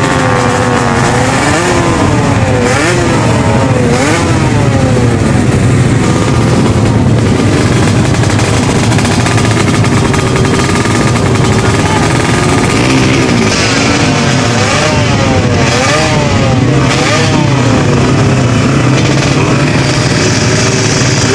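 Drag-race motorcycle engines revving in short bursts, pitch climbing and dropping again and again, over a steady low engine drone.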